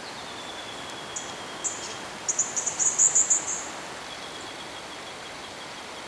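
Forest birdsong: a few high chirps about a second in, then a quick, loud run of high trilled notes around two to three and a half seconds in. Under it runs a thin, steady high-pitched tone that stops and resumes, and a constant hiss of background noise.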